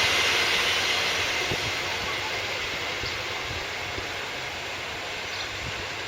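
Passenger train rolling past on the rails, the rumble slowly fading as the train moves away, with a few faint knocks of the wheels.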